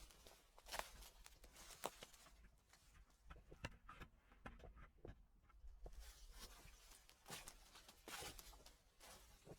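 Footsteps crunching through dry fallen leaves, with crackling steps roughly one a second that are softer and sparser in the middle stretch.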